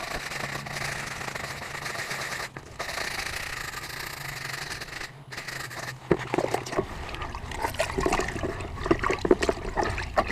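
Water running steadily, then from about six seconds in, quick irregular scrubbing strokes as a scooter tire is cleaned with a household cleaner.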